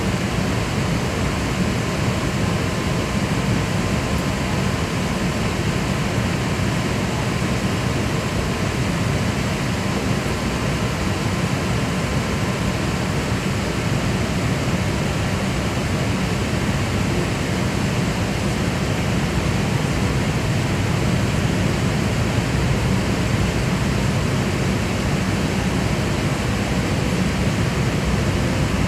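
Steady airliner cabin noise inside an Airbus A380 on approach: an unbroken rush of airflow with a deep engine hum and a few faint steady tones, unchanging throughout.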